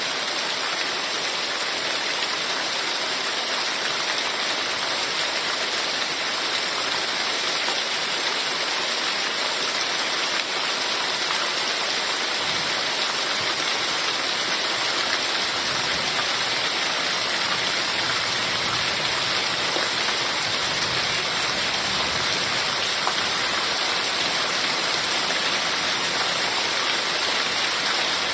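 Heavy rain falling steadily, a dense, even hiss without letup.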